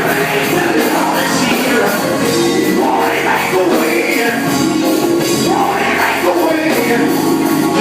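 Live gospel quartet music: voices singing over a full band, with drums and cymbals keeping a steady beat.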